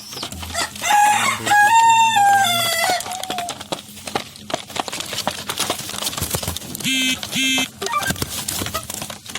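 A rooster crows once, about a second in: a rising, held, then falling call lasting about two and a half seconds. Two short calls follow near the end, over scattered small clicks and taps.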